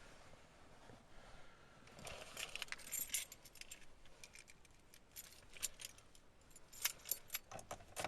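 Keys jangling on a key ring: small metallic clicks and jingles in two short clusters, about two seconds in and again from about five and a half seconds on.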